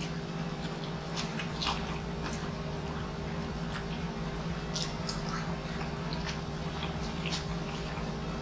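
Close-miked chewing and wet mouth sounds of a person eating rice and meat by hand, with scattered soft smacks and clicks over a steady low hum.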